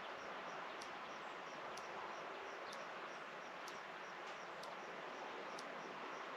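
Quiet outdoor rural ambience: a steady hiss, with a faint high chirp repeating about four times a second and a sharp high tick about once a second.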